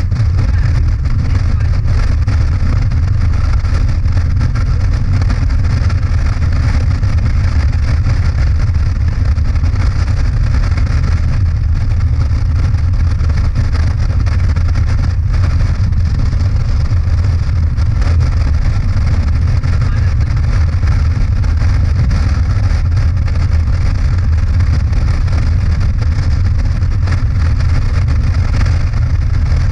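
Motorcycle riding at a steady cruising speed: a constant low engine and road rumble with rushing air noise, unchanging throughout.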